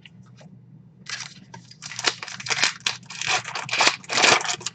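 A trading-card pack's foil wrapper being torn open and crinkled by hand, a run of crackling tears that grows louder toward the end.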